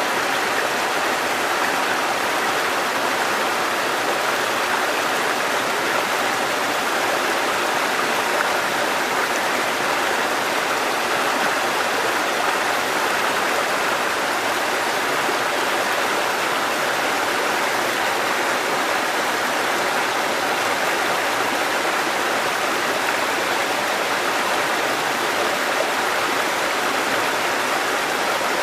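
Mountain stream water cascading over rocks, a steady rushing splash that keeps an even level throughout.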